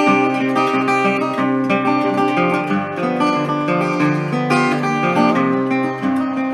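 Acoustic guitar playing between sung lines of a folk song, plucked and strummed chords with no voice.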